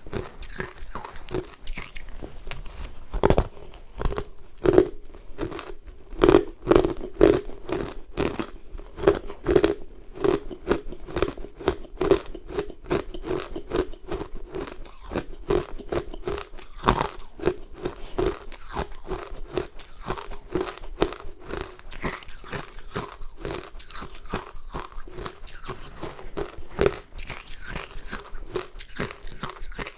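Close-miked biting and chewing of powdery ice dusted with matcha: a continuous run of crisp crunches over a steady chewing rhythm, with the loudest bites in the first third.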